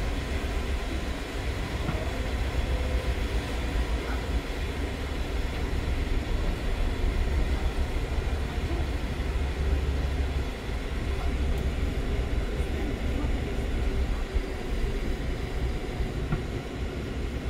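PKP Intercity passenger train running on the rails, a steady deep rumble with rail noise, dipping briefly about two thirds of the way through.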